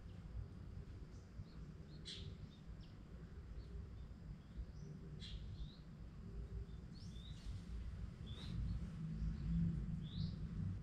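Birds chirping, short scattered chirps a second or two apart, over a steady low rumble of background noise that swells slightly near the end.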